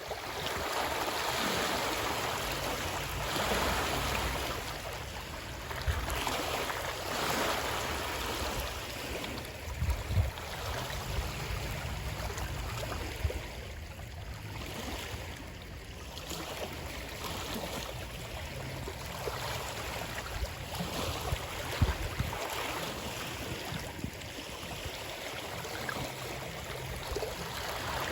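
Water rushing and splashing in a steady, swelling noise, with a few brief low thumps.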